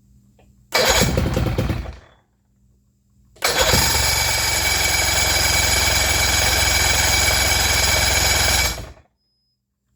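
Outboard motor catching briefly and dying, then starting and running steadily for about five seconds before cutting out abruptly. It keeps dying for lack of fuel, which the owner puts down to a carburetor stopped up with varnish.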